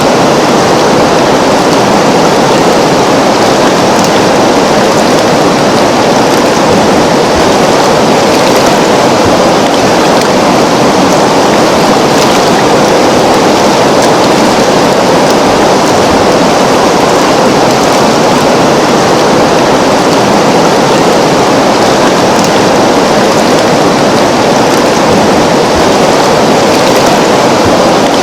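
River water flowing: a loud, steady, unbroken rush of water.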